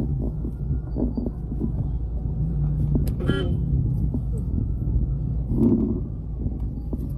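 Low steady rumble of a car's engine heard from inside the cabin as it creeps along in slow traffic, with a brief pitched toot about three seconds in.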